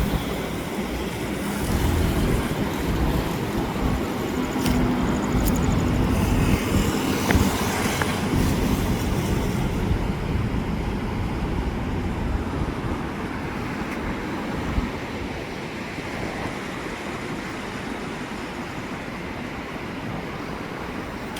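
Road traffic noise: a steady rumble of passing vehicles, louder through the first half and then settling to a steadier, slightly quieter level.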